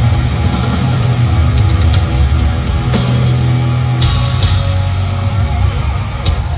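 Hard rock band playing live with distorted electric guitars, bass and drums, heard loud through a handheld recording, with cymbal crashes about three and four seconds in. These are the closing bars of the song.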